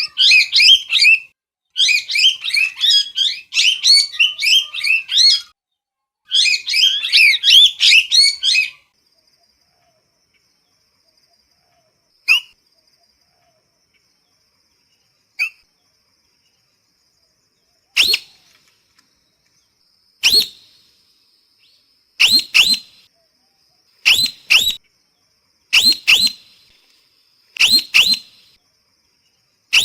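Parrot calling: three bursts of rapid, high chattering calls in the first nine seconds, a lull broken by two single calls, then sharp short calls repeated about every two seconds through the rest.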